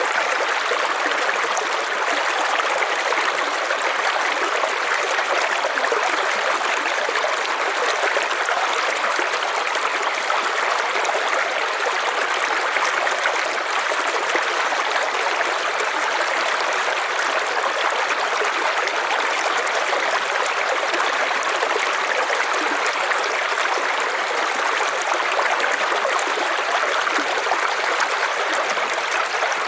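River water flowing steadily over rocks, a continuous even rushing and babbling.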